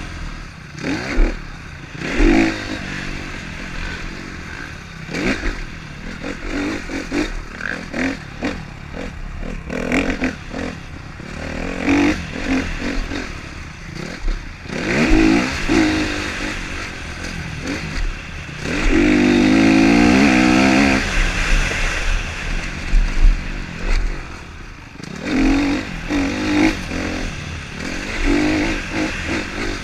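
Motocross bikes running on a track, engines revving up and dropping off again and again as riders accelerate and shift. One bike comes close and is loudest for about two seconds in the middle.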